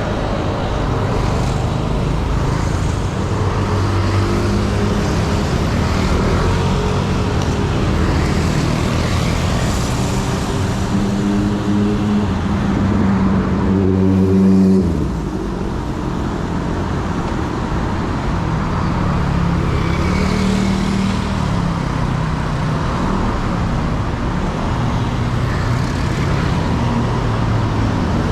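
City road traffic heard from a bicycle in the street: the engines of nearby cars and motorbikes running and passing. A loud engine close by stops suddenly about halfway through.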